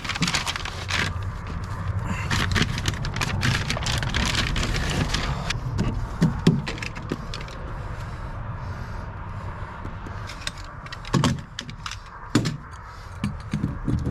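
Irregular scraping, rustling and knocking of hands-on work, over a steady low rumble, with a few louder knocks in the second half.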